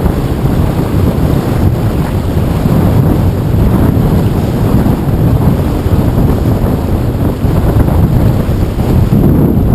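Strong wind buffeting the microphone aboard a small sailboat sailing in 15–20 knot wind: a steady, loud low rush.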